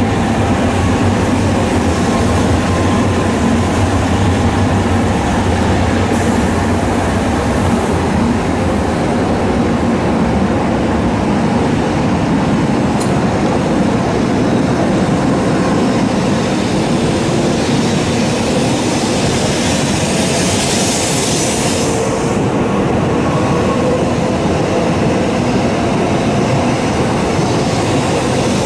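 Shinkansen bullet train departing a station: a loud, steady rumble and rush of wheels and air on the rails. A high hiss swells about 18 seconds in and drops away sharply at about 22 seconds.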